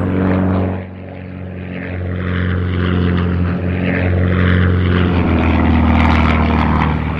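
Engine sound effect of a cartoon vehicle: a steady low drone that drops briefly about a second in, then builds back up and holds.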